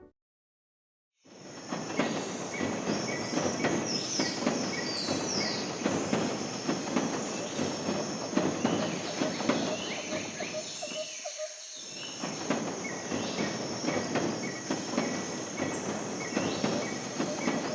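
A train running on rails, starting about a second in: continuous wheel rattle and clicking with short, high squeals of wheels on the track.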